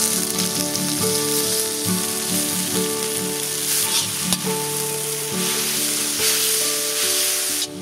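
Ponnanganni greens, just added to onions and green chillies, frying in hot oil with a steady sizzle that cuts off abruptly just before the end. Background music of held notes runs underneath.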